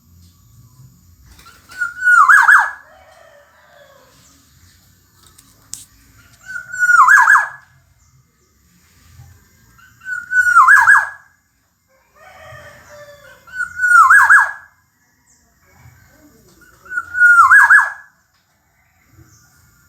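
Black-naped oriole calling: five loud, harsh calls, each sliding downward and lasting about a second, repeated every three and a half to four seconds.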